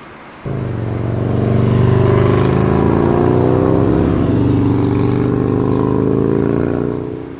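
A motor vehicle engine running, a steady pitched hum with slowly shifting tones. It cuts in abruptly about half a second in and fades away near the end.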